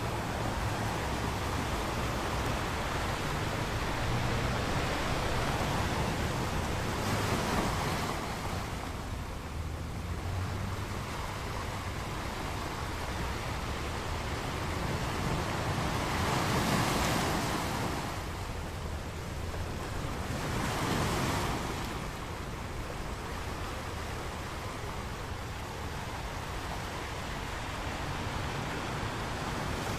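Ocean waves breaking on a beach, a steady wash of surf with swells cresting about a third of the way in, around the middle and a little after.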